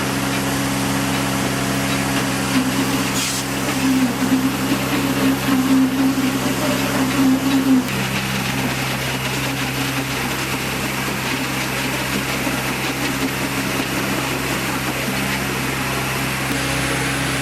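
Sawmill machinery running with a steady hum and a constant low drone, a little rougher for a few seconds in the middle.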